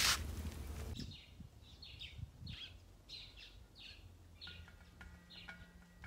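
Birds chirping: a run of short, quick downward chirps, one or two a second, after a loud rustling noise that cuts off about a second in. Soft mallet-percussion music comes in about halfway through.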